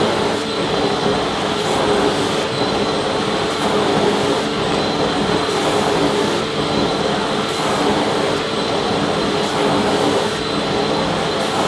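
Vacuum cleaner motor running steadily: a constant rushing noise with a steady whine and no change in speed.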